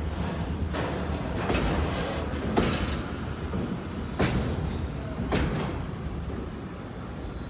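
Container freight wagons rolling past on the rails: a steady low rumble of wheels, with five sharp clanks spread through it.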